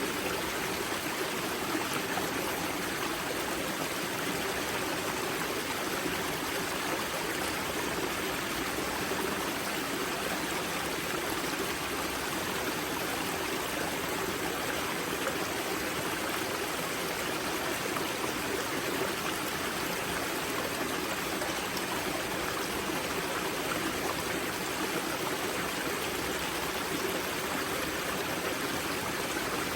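Water of the river Grza's spring source rushing and splashing over rocks in a steady, unbroken flow.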